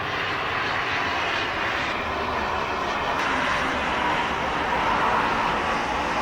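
Jet airliner's engines, a steady rushing noise that swells slightly about five seconds in.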